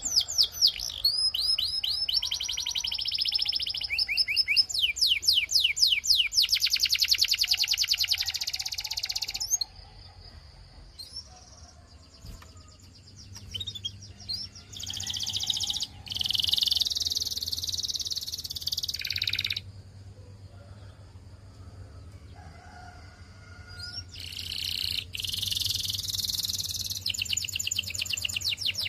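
Canary singing: rapid trills and rolls of fast repeated high notes in phrases several seconds long, broken by two pauses of a few seconds, over a faint low hum.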